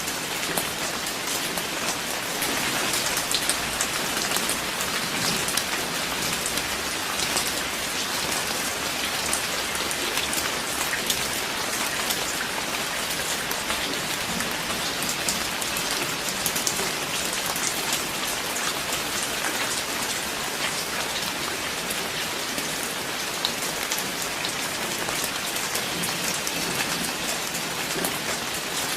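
Steady rain falling, a dense even patter with many distinct drop ticks.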